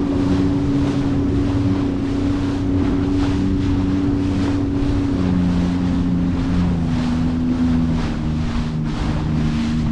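Jet ski engine running steady with wind buffeting the microphone; its pitch steps down about five seconds in.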